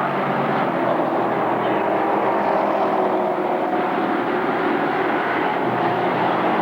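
Vehicle engine running steadily, its pitch drifting slightly up and down.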